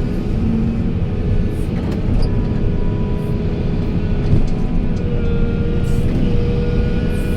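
Heavy diesel construction machinery running: a loud, steady low rumble.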